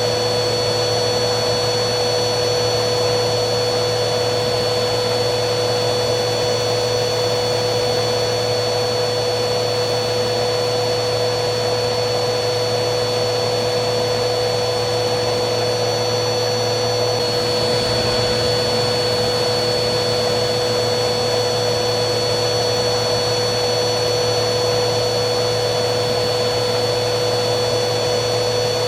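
Vacuum cleaner motor running continuously: a steady rushing of air with a strong hum and a thin high whine above it. The whine falters briefly a little past halfway, then settles again.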